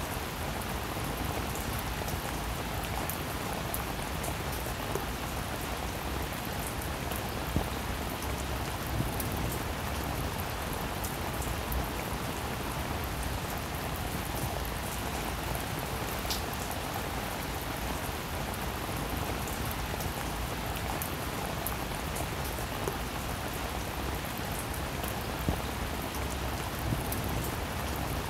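Steady rain falling on wet pavement and puddles: a constant hiss with scattered sharper ticks of single drops splashing.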